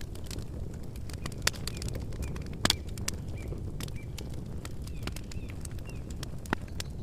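Wood campfire crackling: irregular sharp pops over a steady low rush of flame, with louder pops about a second and a half and nearly three seconds in. A few faint bird chirps sound in the middle.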